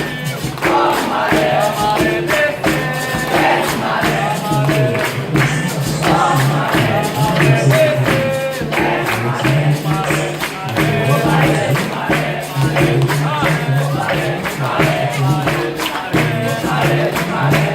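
Capoeira roda music: a lead singer with a group singing back in chorus, over tambourine (pandeiro) and a steady percussion beat.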